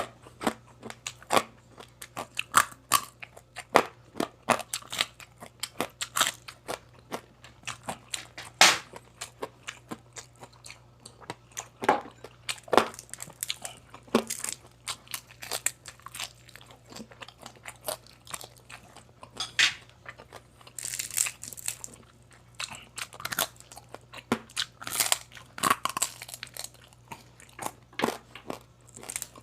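Close-up crunching and chewing of crispy pata, deep-fried pork knuckle with crackling skin: irregular sharp crunches come several times a second.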